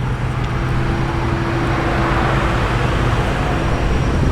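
Ford Mustang's engine running as the car rolls slowly past, a steady low rumble with road and tyre noise that swells around the middle.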